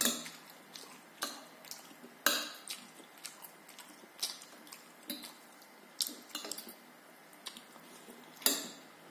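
Cutlery clinking and scraping against a plate during a meal: scattered light knocks about once a second, the loudest near the start, a couple of seconds in, and near the end.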